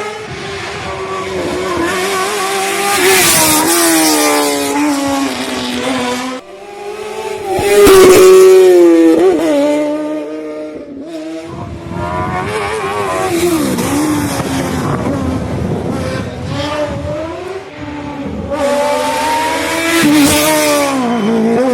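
Race car engines revving hard through a hill climb, the pitch repeatedly climbing and dropping through gear changes and lifts, loudest about eight seconds in.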